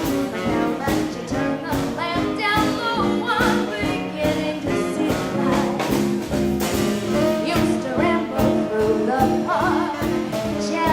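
Live swing band music, horns playing over a steady beat.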